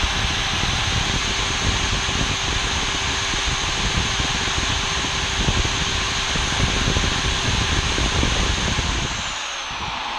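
Milwaukee electric router, freshly fitted with new bearings, running at full speed with a steady high whine. About nine seconds in it is switched off and begins to spin down.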